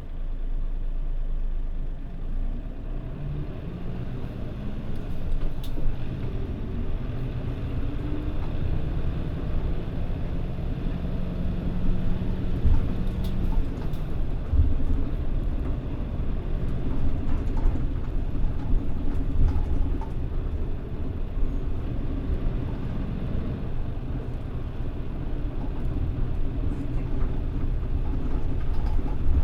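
Mitsubishi Fuso Aero Star (PJ-MP35JM) diesel city bus pulling away and driving. The engine note rises as it speeds up during the first several seconds, drops around a third of the way in, then settles into steady running over a low road rumble.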